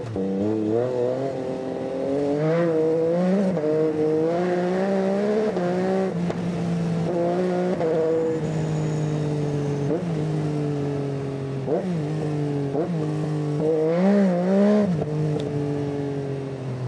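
Yamaha Tracer 9 GT's 890 cc three-cylinder engine pulling through the gears. Its note climbs with each pull and drops sharply at each upshift in the first half, then falls away more gradually. Near the end come several quick throttle blips.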